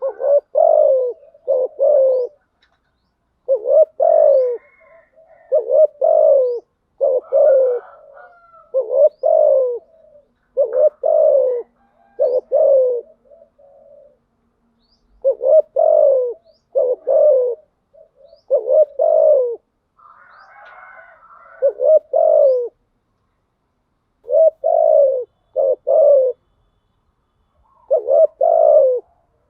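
Spotted dove cooing over and over in short phrases of two or three falling coos, a phrase every couple of seconds. This is the lure call used to rouse a caged decoy dove.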